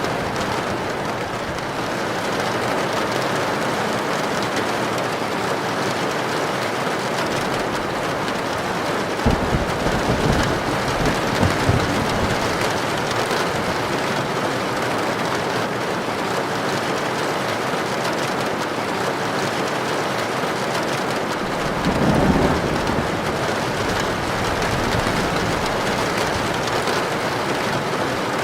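Heavy rain drumming steadily on a tin roof, with rolls of thunder rumbling twice, about nine seconds in and again about twenty-two seconds in.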